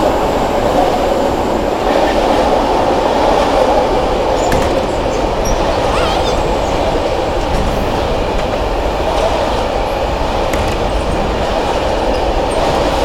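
A train rolling past close by: a steady loud rumble of railcars on the track, with a few faint clicks from the wheels.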